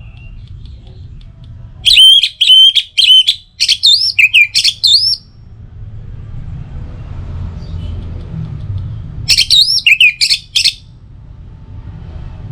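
Orange-headed thrush singing: two loud phrases of rapid, looping whistled notes, the first about two seconds in and the second past the nine-second mark, with a steady low rumble beneath.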